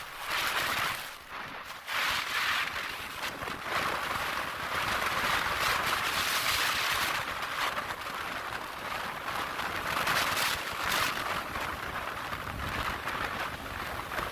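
Rushing wind noise over the microphone from a motorcycle riding at speed, with the road and engine noise buried under it; it swells and eases, briefly dropping about a second and a half in.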